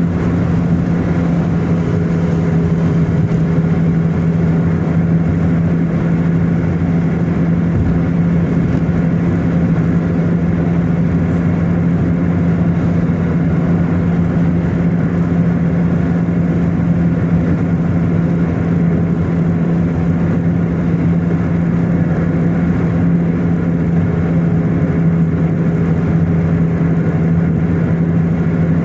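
A car being driven: a steady drone of engine and road noise, with no change in pitch.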